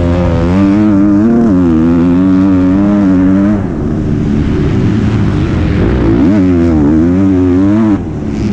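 Motocross bike engine on an MX2 bike heard from an onboard action camera, the revs rising and falling with the throttle. Its pitch drops away briefly about three and a half seconds in and again near the end.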